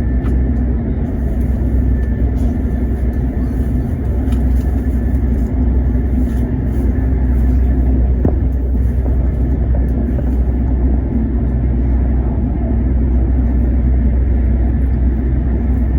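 Steady low rumble of an E7/W7-series Hokuriku Shinkansen train running along the line, heard from inside the passenger cabin.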